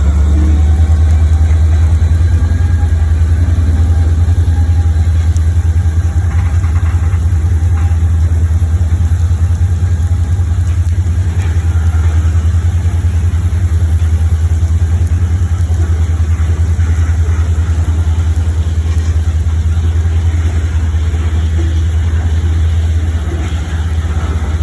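A steady, loud, low engine rumble, running at an even speed with little change.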